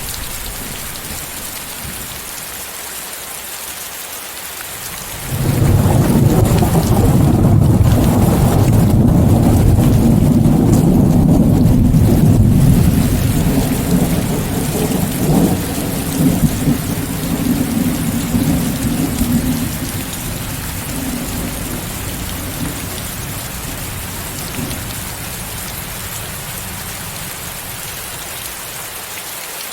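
Steady rain hiss mixed with white noise. About five seconds in, a loud, low rolling rumble of thunder starts suddenly and holds for several seconds, then slowly fades over the next ten seconds or so, leaving the rain.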